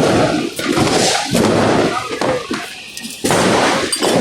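Firecrackers going off in dense crackling volleys, starting abruptly, dipping briefly, and starting again with a sudden burst about three seconds in.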